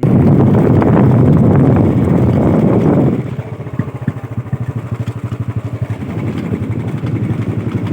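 A motor vehicle engine running close by: loud for about three seconds, then quieter with a rapid, even pulsing.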